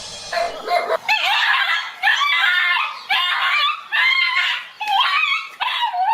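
An animal calling over and over: a string of high-pitched calls whose pitch bends up and down, each shorter than a second, coming roughly once a second.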